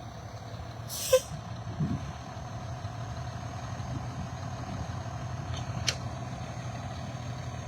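Vehicle engine idling steadily, with a short hiss about a second in and a sharp click near six seconds.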